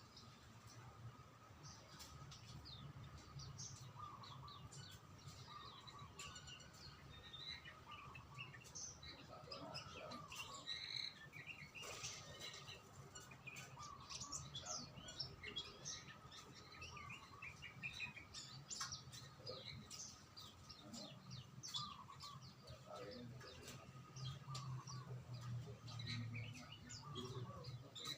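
Songbirds chirping and twittering faintly, many short high calls overlapping throughout, over a low steady hum.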